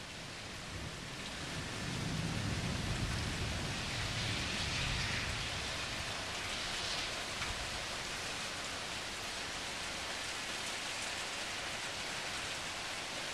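Thunderstorm rain falling steadily, a continuous even hiss. A low rumble swells about two seconds in and fades over the next few seconds.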